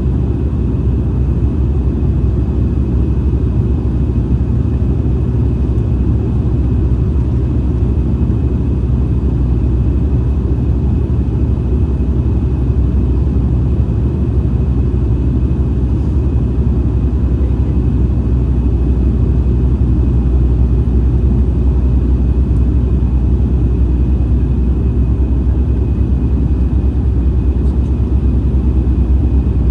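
Airliner cabin noise on the approach: a steady, deep rumble of engines and airflow with a faint high whine held throughout, growing slightly louder in the second half.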